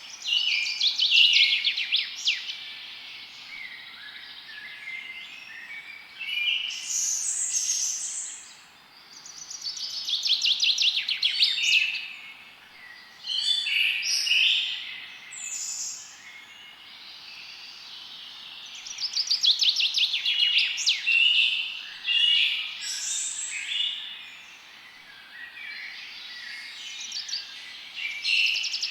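Songbirds singing: bursts of rapid trilled and chirping song every few seconds, over a faint steady hiss.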